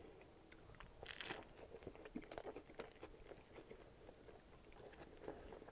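Faint, close-miked biting and chewing of a McDonald's double cheeseburger with lettuce and tomato: soft wet mouth sounds and small crunches, a little louder about a second in.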